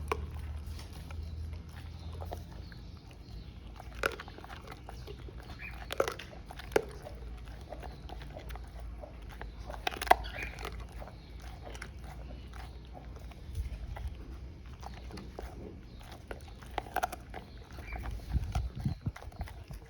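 Cane Corso dog eating, chewing with irregular sharp crunches and clicks.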